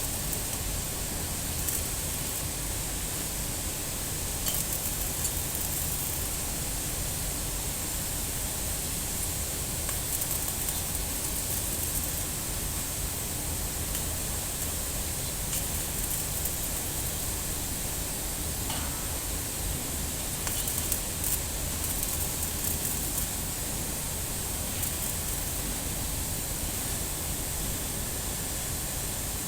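Electric arc welding: a steady crackling hiss from the arc, with scattered sharper crackles, holding an even level throughout.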